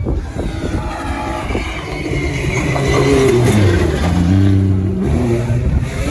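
Rally car engine at high revs going by close at speed; its note falls through the middle, then holds a lower steady tone before changing pitch again near the end.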